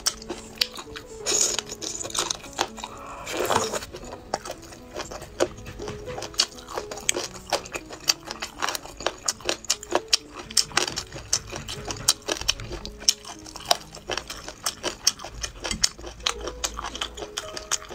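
Close-up eating of sauced chicken feet: a steady run of wet chewing clicks, crunches and sucking sounds, over soft background music.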